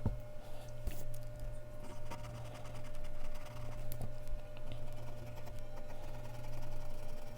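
Mechanical pencil scratching on Bristol paper in quick, repeated strokes, with a few sharp taps, over a steady low hum.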